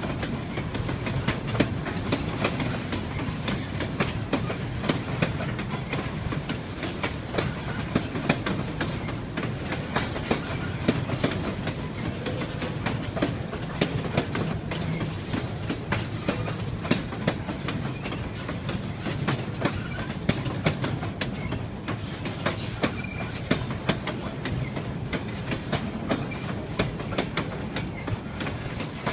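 Railway train rolling along the track: a steady low rumble with many irregular clicks and knocks from the wheels running over the rails.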